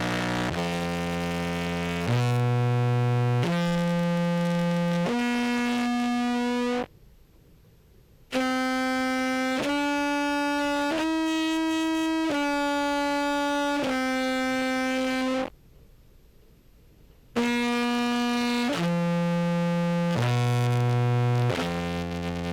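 Amplified contrabass clarinet played through a compressor: three phrases of held notes, stepping down and up in pitch, with short pauses between phrases. Each note sounds at much the same level, a sign the compression is evening out the notes, including a G that was weak before.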